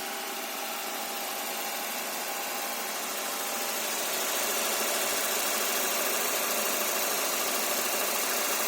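Toyota 5A-FE 1.5-litre inline-four engine running steadily during a water decarbonising treatment, growing somewhat louder about four seconds in.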